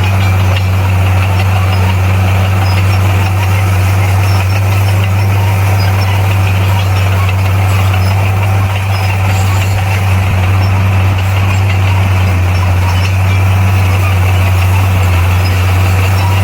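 Heavy earthmoving machine's diesel engine running steadily, a constant low drone.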